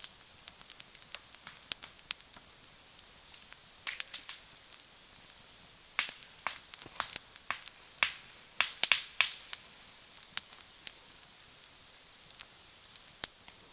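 Wood campfire crackling: irregular sharp pops over a steady hiss, with a flurry of louder pops around the middle.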